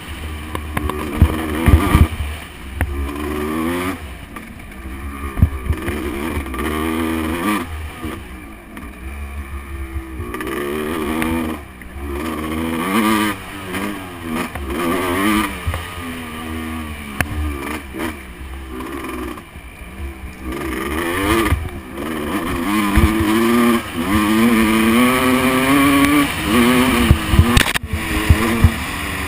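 Motocross bike engine revving hard and backing off over and over, its pitch climbing and dropping with each burst of throttle, with scattered sharp thumps from the track.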